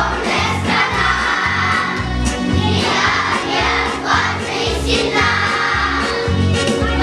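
A children's choir singing a song in unison over a recorded backing track with a steady bass beat.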